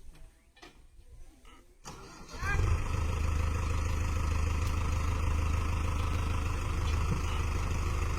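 A tractor engine comes in about two seconds in, then runs at a steady speed with a constant low hum.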